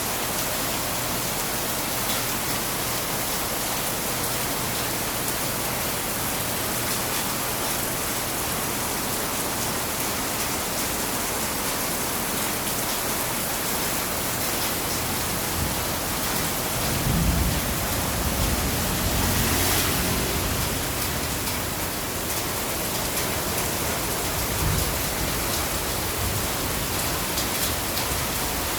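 Steady rain falling, an even hiss throughout. A low rumble swells for a few seconds a little past the middle.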